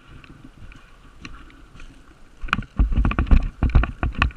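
A person moving off quickly on foot, with clothing and gear jostling. The thuds start about halfway in and come about four or five a second.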